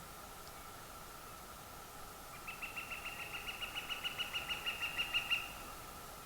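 A bird calling a fast, even series of about eight notes a second that grows louder over about three seconds and then stops abruptly. A faint steady high tone runs underneath throughout.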